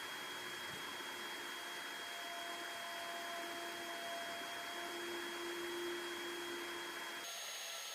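Laser engraver running: a steady whirring hiss from its fans, with a few steady whining tones from the motors. The sound changes abruptly near the end, as the lower whines stop and a higher one starts.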